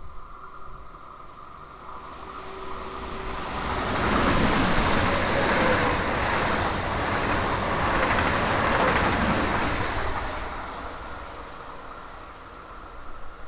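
ICE high-speed train running through the station at speed: a rush of wheel and air noise that swells over a couple of seconds, stays loud for about six seconds as the carriages pass, then fades away.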